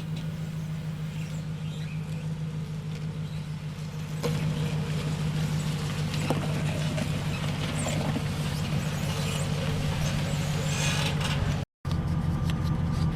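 Motor vehicle running steadily, a constant low engine hum. The hum gets louder about four seconds in and cuts out for an instant near the end.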